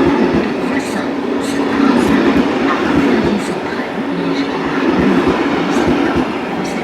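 A train running on the rails, loud and continuous, with a wavering hum, repeated low knocks from the wheels and brief hisses.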